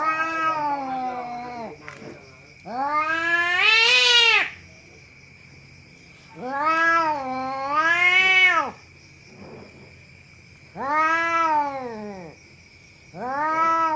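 A cat yowling (caterwauling) in long, drawn-out wails, about five in all, each rising and then falling in pitch and lasting up to two seconds, with short pauses between. A faint steady high-pitched tone runs underneath.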